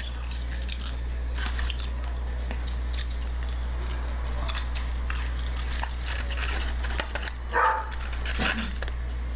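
Close-mic chewing and biting of chicken wings, with small clicks of a plastic fork against a foam container, over a steady low hum. About three-quarters of the way in, a dog barks briefly.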